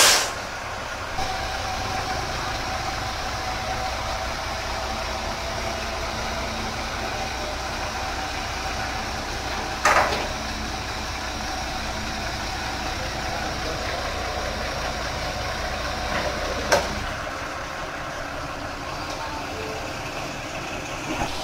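Heavy construction machinery's diesel engine running steadily, with a steady whine above the hum. It is broken by three sharp metallic bangs: one at the start, one about halfway through, and one about three quarters through, where the engine's low hum drops away.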